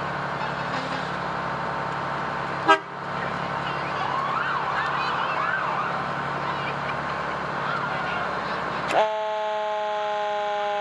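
A truck runs steadily under a sharp click, then about nine seconds in the fire truck's siren starts suddenly: a chord of several steady tones that drifts slightly lower.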